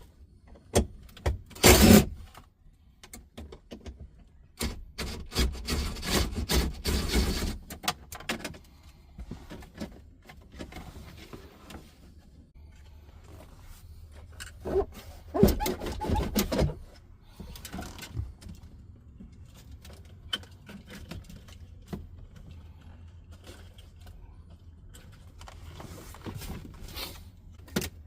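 Hand tools and loose parts knocking and clattering in several short bursts, with quieter stretches between: the sound of working on a car's dash and steering column.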